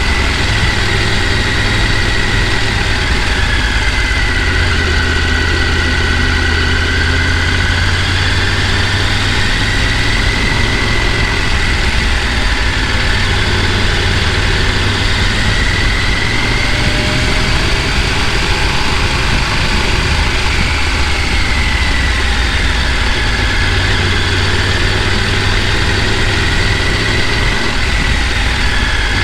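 Mountain stream water rushing over rocks, a steady loud roar with a deep low rumble and faint slowly wavering tones in the hiss.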